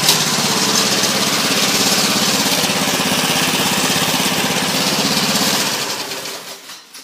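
Small lawnmower engine running steadily at speed with an even, rapid firing pulse, then fading out over the last second or so.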